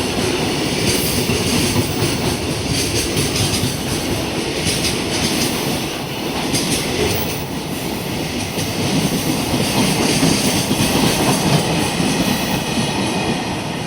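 Freight train wagons rolling past at speed, a continuous rumble with the wheels clattering over the rail joints.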